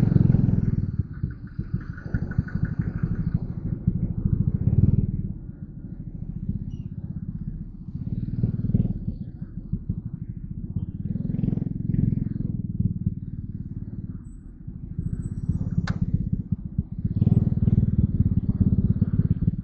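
Yamaha Crypton R underbone motorcycle's single-cylinder four-stroke engine running on the move, growing louder and easing off several times. A single sharp click comes about sixteen seconds in.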